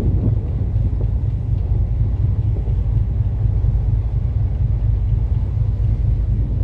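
Steady low rumble aboard the Sea Paseo 2 cruise ferry under way, the ship's engine noise mixed with wind rumbling on the microphone.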